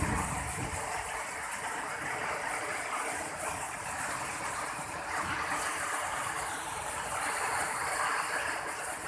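Heavy rain pouring steadily in a storm, with a brief low rumble right at the start.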